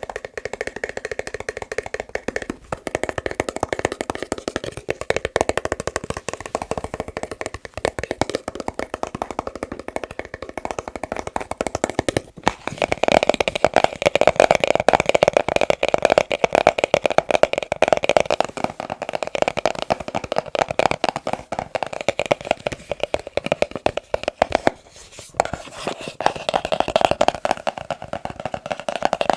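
Very fast, continuous tapping on boxes. The tone of the taps changes a few times, most clearly about twelve seconds in, where it grows louder and fuller, and again near the end, as the tapping moves to a different box.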